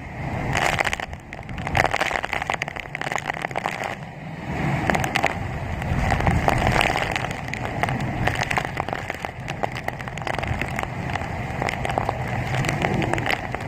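Typhoon wind and rain, rising and falling in gusts with a constant crackle of rain.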